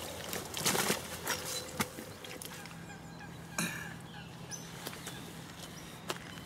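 Rustling and a few sharp knocks as a fish recovery sling and unhooking mat are handled, most of them in the first two seconds and one more a little after three and a half seconds. Birds call faintly around the lake.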